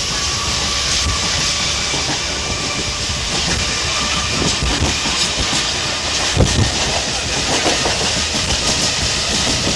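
Train running on the track: a steady noise with irregular knocks, the loudest about six and a half seconds in.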